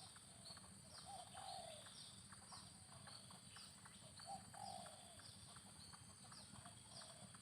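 Faint cooing of a spotted dove, short low coos in little groups a few seconds apart. Under it run many short, high, falling chirps and a faint steady hiss.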